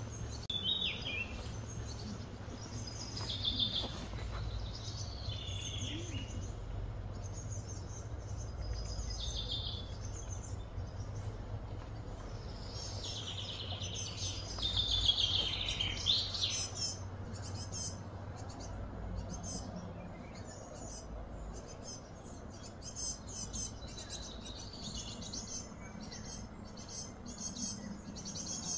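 Birds chirping and calling in short repeated phrases, busiest about halfway through, over a steady low hum of background noise.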